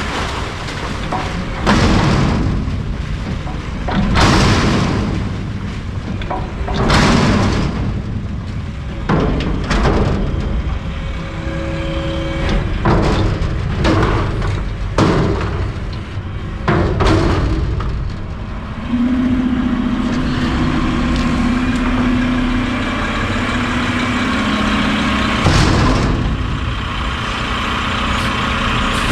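Garbage truck's diesel engine running while a container is dumped into the hopper, with repeated heavy thumps every second or few. A steady hum joins about two-thirds through.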